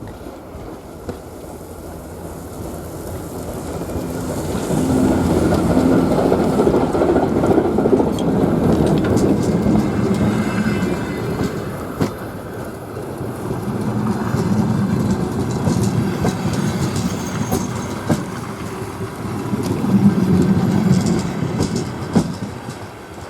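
A TEM18D diesel shunting locomotive and its suburban passenger train rolling past, with a low hum and wheels clicking over rail joints. It grows louder over the first few seconds, swells three times and falls away near the end.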